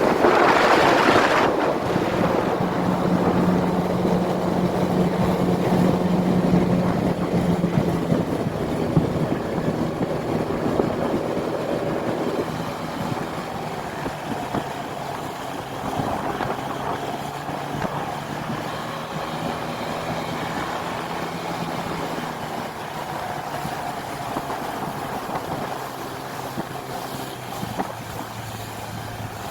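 An engine running steadily while travelling, its hum shifting in pitch several times, with a rush of wind noise. The noise is loudest in the first second or so.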